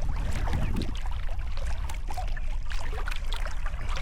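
Sea kayak being paddled: water splashing and trickling off the paddle blades as they dip in and lift out, over a steady low rumble of wind on the microphone.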